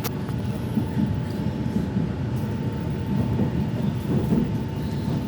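Train carriage running, heard from inside: a steady low rumble with a thin, constant whine above it and a single click at the start.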